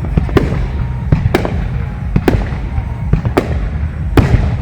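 Fireworks display: aerial shells bursting one after another, a sharp bang about once a second over a continuous low rumble.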